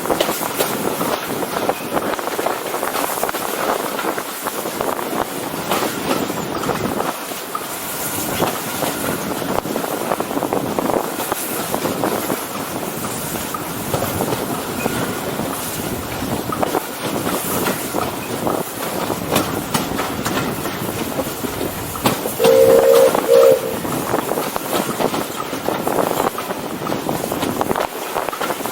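Steam-hauled heritage train running along the line, its carriage wheels clicking over the rail joints with a steady rumble. About three-quarters of the way through, the steam locomotive's whistle sounds one short blast, the loudest sound here.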